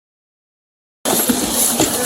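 Complete silence from an edit gap, then about a second in, body-worn camera audio cuts in abruptly with a loud, hissy noise spread across all pitches.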